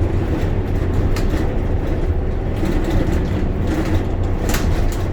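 Inside a moving bus: a steady low engine drone with road noise, and a few short rattles of the body.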